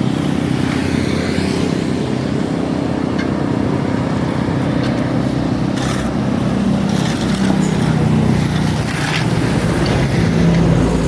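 An engine running steadily, with brief sharp noises about six and nine seconds in.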